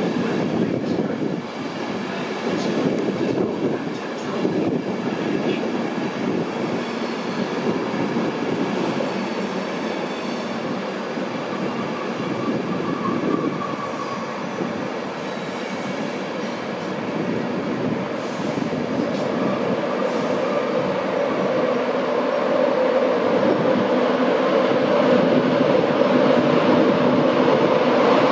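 LNER InterCity 225 Mark 4 coaches rolling slowly past on the rails, with scattered clicks of the wheels in the first few seconds. Over the last several seconds a steady electric hum grows louder as the train's Class 91 electric locomotive draws near.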